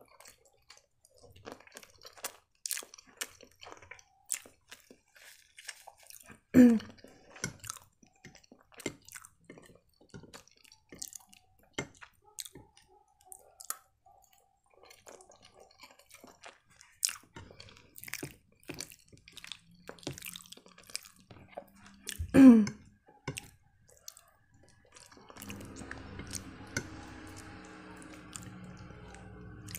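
Close mouth noises of chewing soft penne pasta in a creamy sauce, with small wet clicks and the metal fork scraping a plastic plate. Twice there is a brief sound of the voice, about 7 and 22 seconds in, and near the end a low steady hum comes in.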